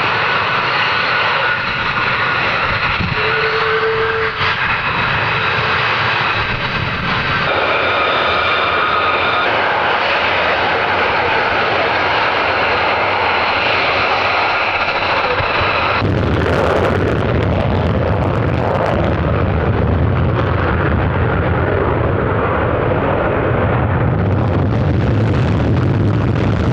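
Military jet aircraft engines running loud, with a steady turbine whine of several high tones over the noise. About sixteen seconds in, the sound changes abruptly to a deeper rumbling jet noise.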